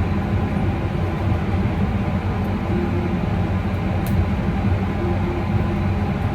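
Steady mechanical drone with a constant low hum, from machinery running on a food truck, with a faint tick about four seconds in.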